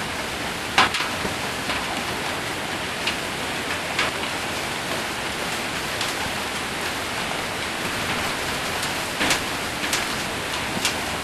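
Heavy rain falling steadily on a metal roof, with scattered sharper single hits from hailstones or big drops striking the sheet, the loudest about a second in and a few more near the end.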